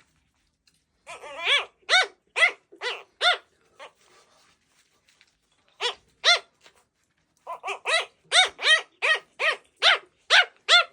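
Mini bichon puppy barking in runs of sharp, high-pitched yaps: about six in quick succession a second in, two more midway, then a longer run of about a dozen near the end.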